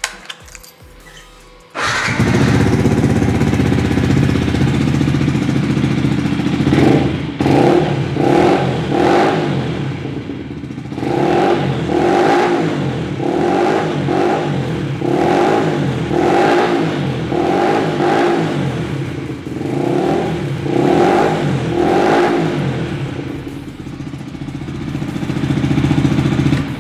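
A 2017 Yamaha MT125's 125cc single-cylinder four-stroke engine, fitted with an aftermarket Black Widow exhaust, starting about two seconds in. It then runs and is revved in a long string of quick throttle blips.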